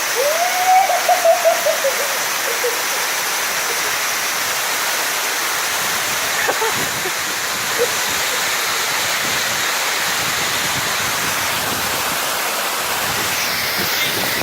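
Waterfall pouring with a steady, loud rush of falling water. In the first couple of seconds a person's voice calls out in one drawn-out rising-and-falling call over it.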